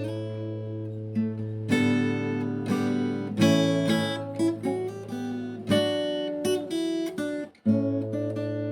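Background acoustic guitar music: plucked and strummed chords ringing over a steady low bass note, with a brief break about seven and a half seconds in before the music resumes.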